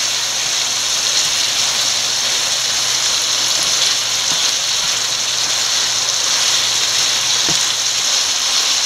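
Squid rings with capsicum and tomato sizzling in a frying pan as they are stirred with a wooden spatula: a steady hiss while the cooking liquid boils off and the dish dries down.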